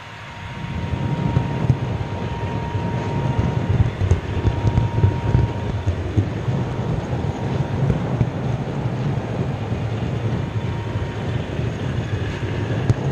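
OO gauge model train running along its track, heard close up: a steady rolling rumble of wheels on rail that sets in about half a second in, with a faint thin whine over the first few seconds.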